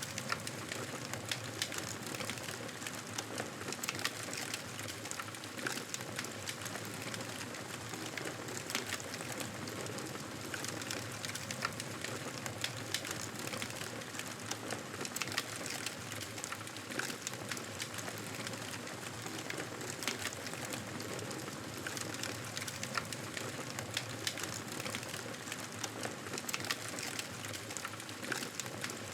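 Wood fire crackling: a steady hiss with frequent small pops and snaps scattered through it.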